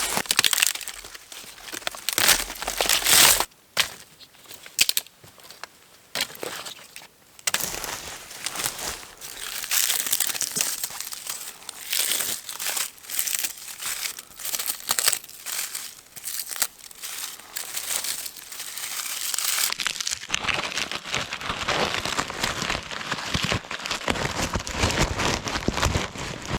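Close, irregular crinkling and rustling, like dry material being handled or crushed, growing denser and fuller in the last few seconds.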